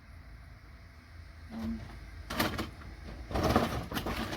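Handling noises from small scrap connector parts being sorted by hand: a few short knocks and rustles about two, three and a half and four seconds in, over a low steady hum.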